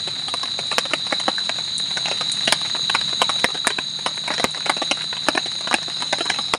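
Close-up eating sounds: irregular crisp clicks and smacks of chewing and handling food, several a second, over a steady high-pitched drone.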